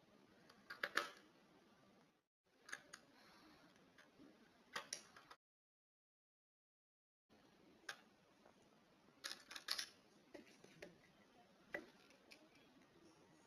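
Near silence with faint, scattered sharp clicks and ticks, a small cluster about a second in and another near 9 to 10 seconds. The sound cuts out completely for about two seconds in the middle.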